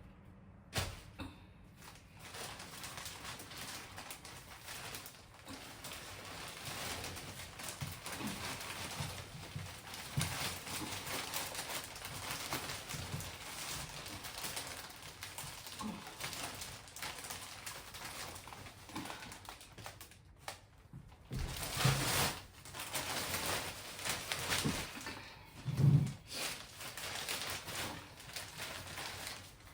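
Hands working potting soil and a plant pot: continuous rustling and scraping with irregular light knocks, and two louder knocks near the end.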